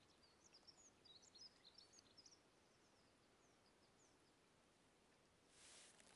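Faint songbird chirps in a pine forest, a quick cluster of short high notes in the first couple of seconds, then a few scattered calls. Near the end comes a brief soft rustle of movement.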